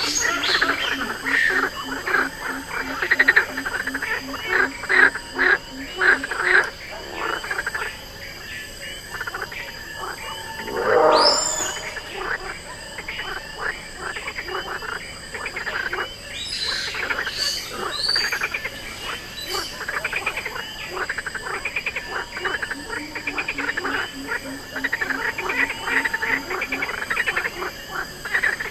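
Chorus of croaking frogs with other animal calls, in an ambient soundscape made to evoke the Cretaceous. A low, fast pulsed trill comes at the start and again near the end. Dense clicking calls run throughout, one call sweeps steeply upward about eleven seconds in, and a few short high chirps follow several seconds later.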